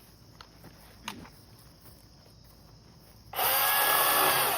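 Milwaukee Fuel 16-inch battery chainsaw running in one short burst of about a second and a half, starting about three seconds in, with a steady electric whine under the noise of the chain. Before it there are only a couple of faint clicks.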